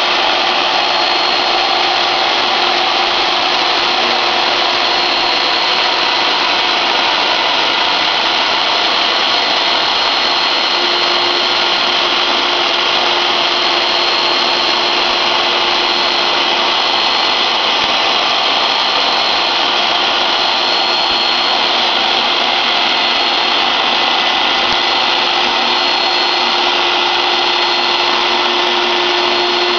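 CNC router running steadily as it cuts out a slot car track: a loud, even rush of noise with a high whine. A low steady hum grows stronger about eleven seconds in.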